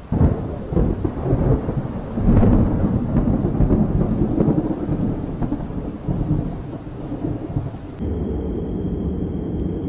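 Thunder rumbling over rain, with loud cracks right at the start and about two seconds in. About eight seconds in the sound cuts abruptly to a steadier low rumble.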